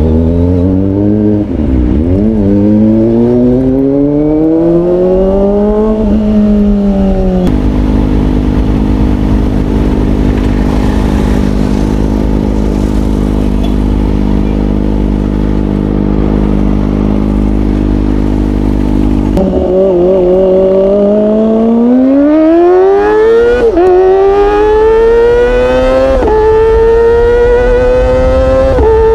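Kawasaki ZX25R inline-four motorcycle engine through an aftermarket Orion exhaust, revving up through the gears, holding a steady note for about twelve seconds in the middle, then accelerating again with quick dips in pitch at each upshift near the end.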